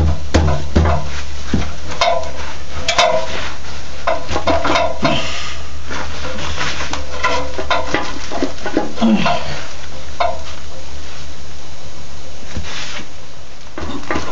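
Heavy rain hissing and pattering steadily over a constant low rumble, with scattered short knocks and scrapes throughout.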